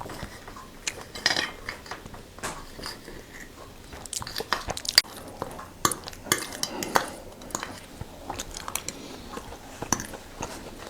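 Irregular clicks, knocks and clinks of small hard objects being handled, several a second at times, with a sharper knock about five seconds in.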